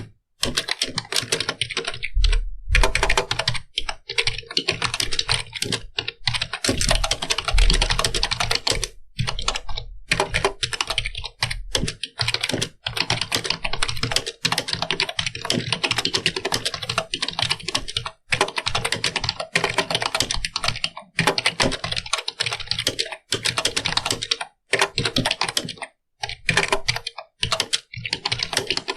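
Computer keyboard being typed on fast and continuously, runs of keystrokes broken by brief pauses.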